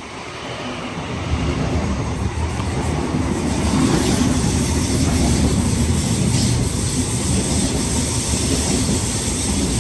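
A NSW TrainLink D set (Mariyung) electric intercity train running through the station. Its wheel and rail noise grows louder over the first few seconds, then holds steady as the cars go by.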